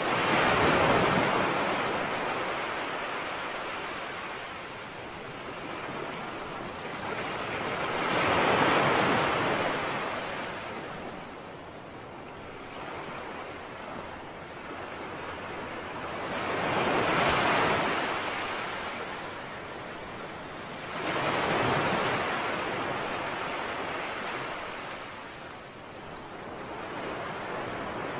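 Sea waves washing in: four surges of surf, each swelling and then fading away over several seconds.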